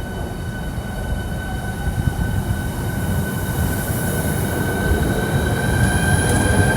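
Electric train on the line, its traction motors giving a set of steady whining tones that rise slightly in pitch over a low rumble, growing louder as it comes in.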